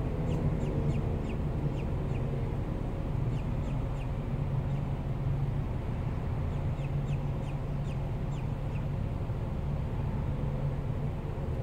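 A bird calling in quick runs of short, high, falling notes, several runs with pauses between, over a steady low hum.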